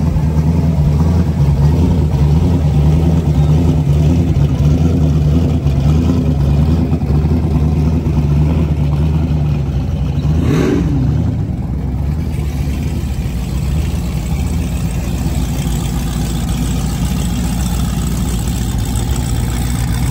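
Deep, loud rumble of a Chevrolet Chevelle SS muscle car's engine as it rolls slowly past. There is a brief rev a little past halfway, and after that the rumble is slightly quieter.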